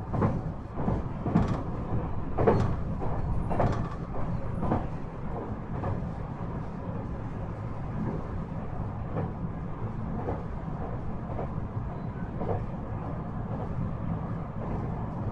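Running noise of a JR West 223 series 5000 subseries electric multiple unit heard from inside the car: a steady rumble, with the wheels clicking over rail joints at an even beat of about once a second. The clicks are sharpest for the first few seconds and then grow fainter.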